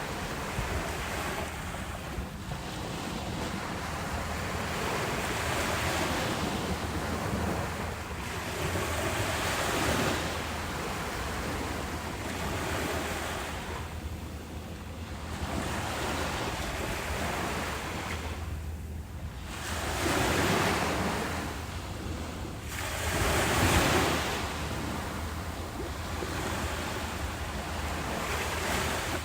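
Ocean waves breaking and washing up the beach in repeated swells of surf, the loudest about 24 seconds in, with wind noise on the microphone.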